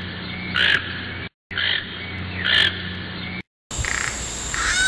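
Toucan calling: short hoarse calls about once a second over a steady low hum. The recording breaks off and restarts twice, and a higher, drawn-out call begins near the end.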